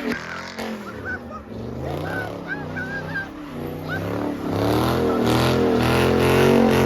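Muscle car V8 engine revving up and down, with short high squeals in the first half, likely the tyres. From about four seconds in, the revs climb again and the engine gets louder.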